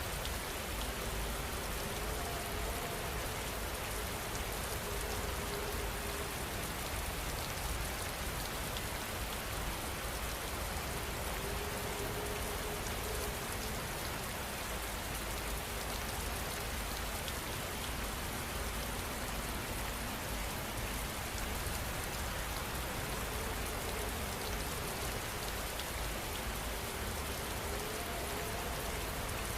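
Steady heavy rain falling, an even, unbroken hiss of drops with a deep low rumble underneath.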